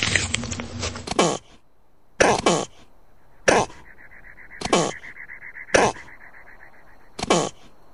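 An animal giving short, harsh calls, each falling in pitch, repeated about once a second. They follow about a second of dense crackling noise that cuts off suddenly.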